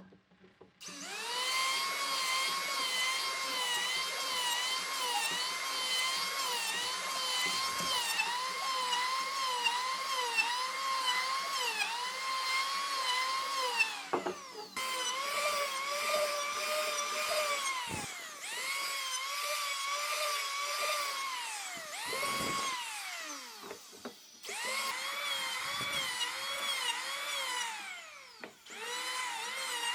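Handheld electric power tool motor whining in runs, its pitch wavering and dipping as it bites into the wood. It is released several times, winding down with a falling pitch before starting up again.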